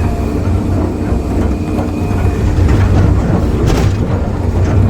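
Excavator's diesel engine running under load while its bucket knocks and scrapes against concrete, with rattling and clanking, and two sharp cracks near the end as the concrete breaks.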